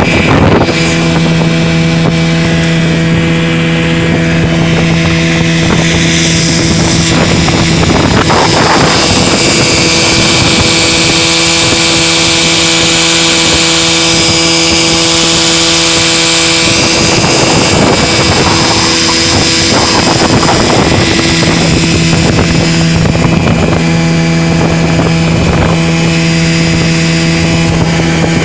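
Small outboard motor running steadily and driving a light fiberglass boat, with a rush of water and wind over it. The engine note shifts for a few seconds past the middle, then settles back.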